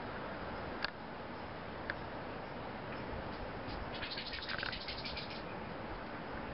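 Steady outdoor background hiss with two faint clicks early on, then about four seconds in a small bird gives a quick run of high chirps lasting about a second and a half.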